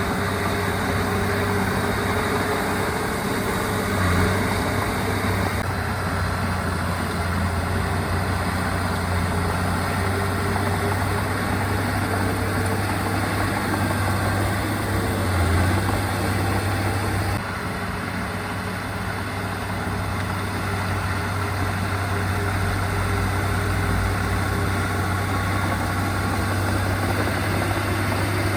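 Diesel engine of earthmoving machinery running steadily with a deep hum. The sound shifts abruptly about six seconds in and again about seventeen seconds in.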